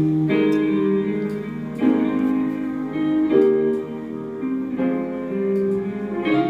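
Background music: a slow, gentle piece on a plucked string instrument like a guitar, with new notes struck about every second and a half and left to ring.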